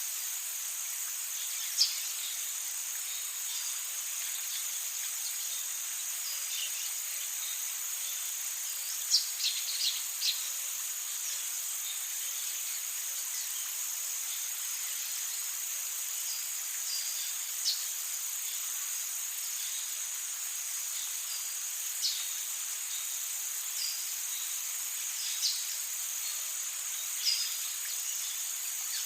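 Rainforest ambience: a steady, high-pitched drone of insects, with short, sharp bird calls that drop in pitch breaking in every few seconds, several close together about nine to ten seconds in.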